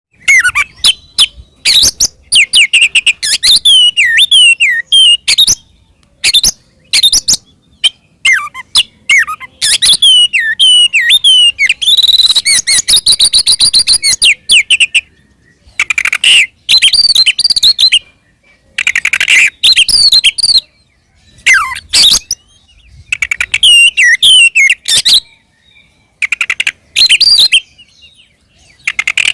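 Oriental magpie-robin singing loudly in its aggressive fighting mode: bursts of varied sliding whistles and sharp clicking notes broken by short pauses, with a fast run of repeated notes about twelve seconds in.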